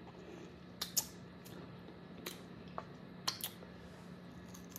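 A few short, sharp clicks and taps at irregular intervals over a faint steady hum.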